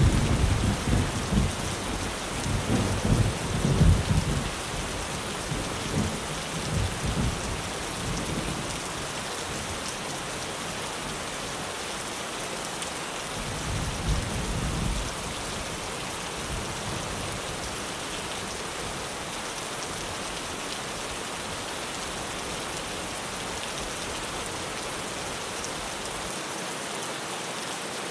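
Steady heavy rain on a tin roof, with rolling thunder rumbling for the first several seconds and a second, shorter rumble about halfway through.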